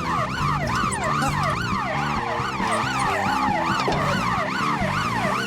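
Siren yelping in fast, even rises and falls, about two and a half sweeps a second, over background music.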